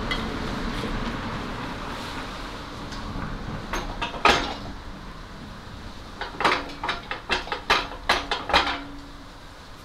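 Metal tools and parts clinking and tapping as they are handled: a couple of sharp clinks about four seconds in, then a quick run of about eight near the end, over a steady background noise that fades away in the first seconds.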